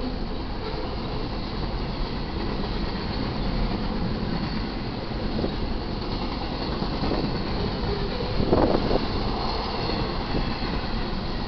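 Double-stack intermodal freight cars rolling past on the rails: a steady rumble and clatter of wheels on track, with a brief louder surge about eight and a half seconds in.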